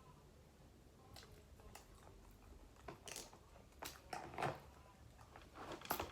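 Eating sounds close to the microphone: scattered small clicks, crackles and wet smacks of seafood-boil food being handled and chewed, picking up in the second half.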